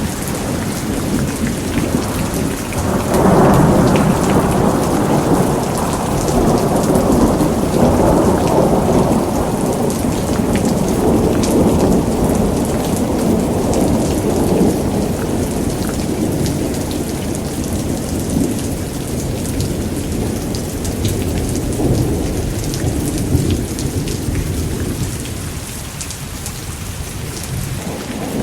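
Steady heavy rain with a long rolling thunder rumble. The rumble begins about three seconds in and is the loudest part, then fades slowly over the next twenty seconds or so.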